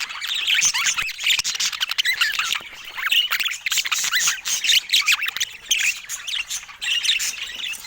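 Budgerigars chattering: a fast, dense run of chirps, squawks and short warbled notes, with many short clicks mixed in.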